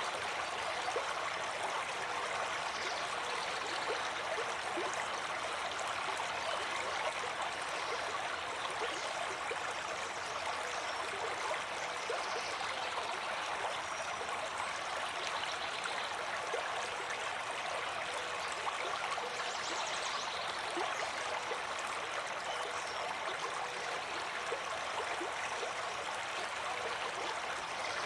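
Flowing stream: a steady, even rush of water.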